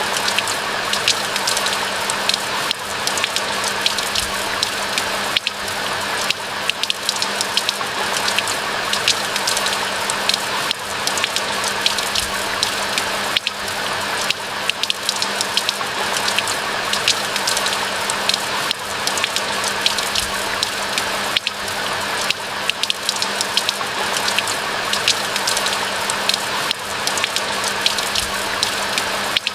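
Steady rain, a continuous hiss with many separate drops ticking through it.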